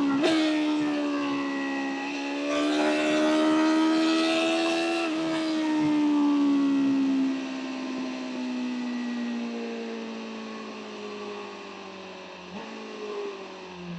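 BMW M1000R's inline-four engine on the road, its pitch jumping briefly a couple of times at first, then rising under throttle until a shift about five seconds in. After that the engine note falls steadily as the bike slows on the overrun, with a couple of quick throttle blips near the end.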